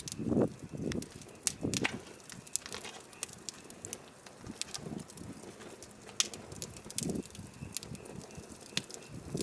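Burning firewood crackling, with irregular sharp pops and snaps. A few short, low, soft sounds come in between, the loudest about half a second in.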